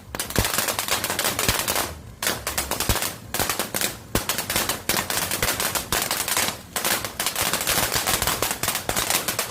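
Crackling fireworks fountain going off: a dense, rapid run of sharp cracks and pops, like machine-gun fire, with a few brief lulls.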